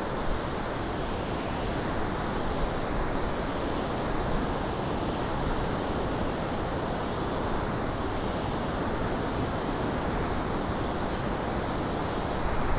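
Ocean surf breaking and washing ashore, a steady rush of noise, with wind buffeting the microphone.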